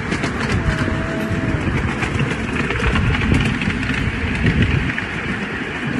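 Miniature railway train running along its track, heard from on board: a steady rumble with light clicks.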